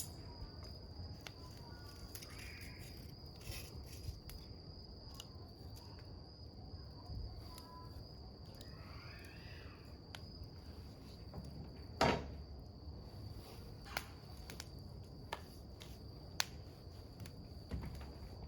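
Wood fire crackling with scattered sharp pops, the loudest about two-thirds of the way through, over a steady high drone of crickets. Two short calls, one early and one about halfway, sound in the background.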